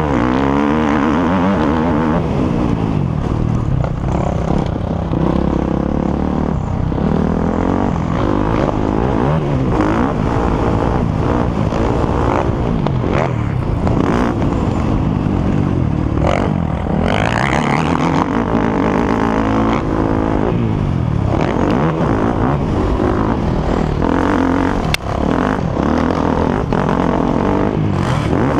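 Several motocross bikes racing, their engines revving up and down over and over as they accelerate, shift and back off, with the sounds of different bikes overlapping.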